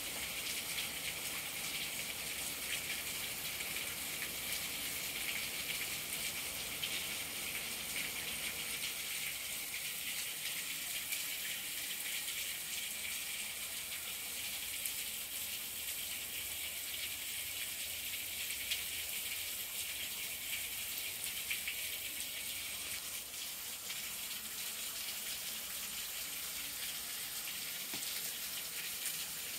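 Hard rain pouring steadily onto dense shrubs and palmettos, a continuous even hiss.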